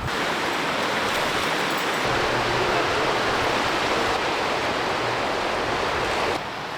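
Rushing river water, a steady hiss-like rush with no engine or voice in it, cutting off abruptly near the end.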